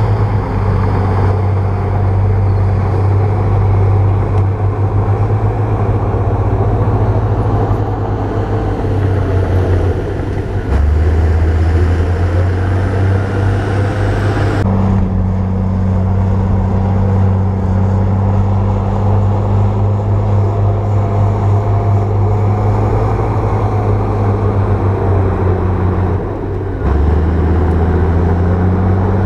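Bulldozer diesel engine running steadily under load with a low drone. Its note deepens around 11 seconds and again near the end, and the sound changes abruptly around 15 seconds.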